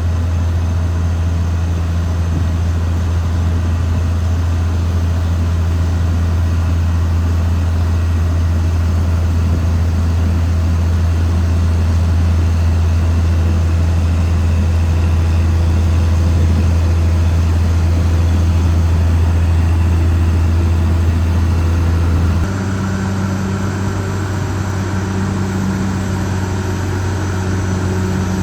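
Caterpillar D6R XL bulldozer's diesel engine running steadily with a deep drone. Near the end the sound changes abruptly to a slightly quieter engine note with a different pitch.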